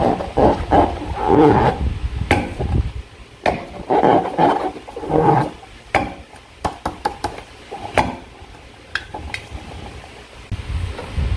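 Slime and a rubber balloon being squeezed and worked by hand: uneven rubbery groans and squelches with sharp sticky clicks and pops. It gets quieter about halfway through.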